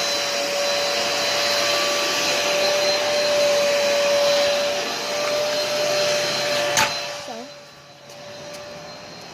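Steady whooshing noise of a running motor or fan, with a constant whine. About seven seconds in there is a sharp click, and the rush drops away to a much quieter background.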